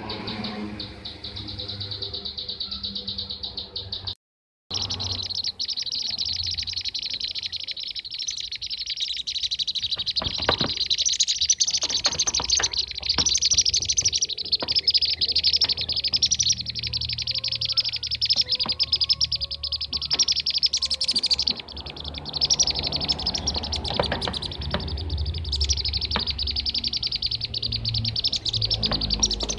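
A dense, continuous chorus of rapid high chirping calls from kirik-kirik (bee-eaters). It cuts out completely for about half a second roughly four seconds in.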